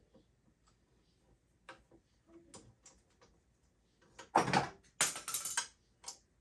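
Tool-handling noises at a workbench: scattered light clicks and knocks, then two louder, noisy rubbing sounds of about half a second each, roughly four and five seconds in.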